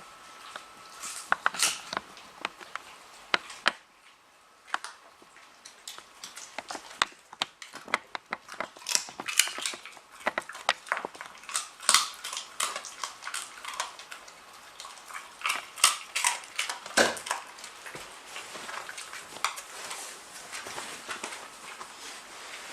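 Smooth fox terrier chewing, irregular crunching and clicking in quick clusters, with a brief lull about four seconds in.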